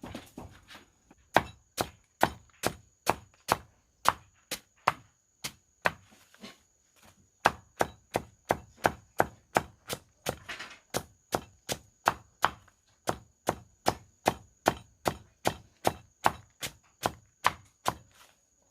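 Steady chopping with a blade, about two sharp strokes a second, with a short break about five seconds in.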